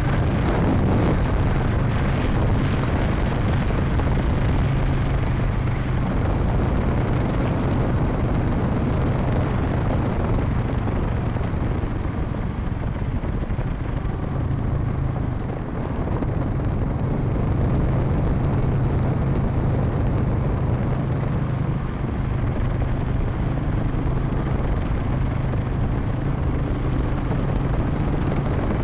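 Motorcycle engine running steadily while riding, its low hum under a steady rush of wind noise, with brief easings of the throttle about halfway through and again later.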